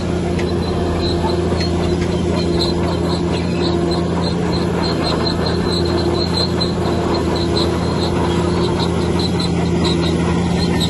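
Bulldozer's diesel engine running steadily and loud, with a fast, uneven run of short high-pitched squeaks over it.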